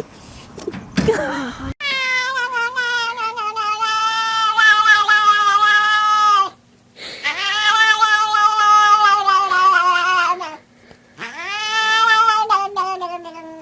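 A cat yowling: three long, drawn-out calls of several seconds each, each dropping in pitch at its end, over a steady low hum.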